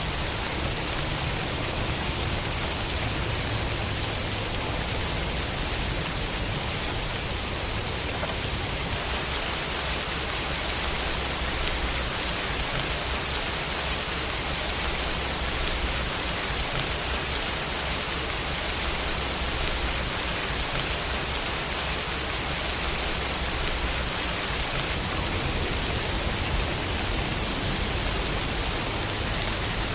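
Steady rain falling: an even, unbroken hiss of drops with a low rumble underneath.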